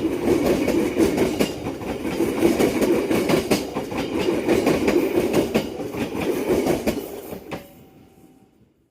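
Train cars rolling past on the track, the wheels clicking rapidly over rail joints, the sound fading away over the last couple of seconds.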